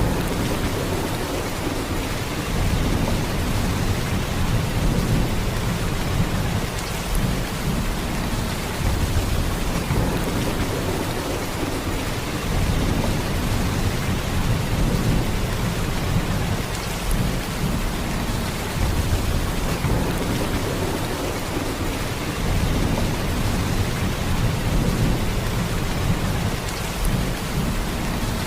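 Heavy, steady downpour of rain, with a deep low rumble underneath that swells and eases every few seconds.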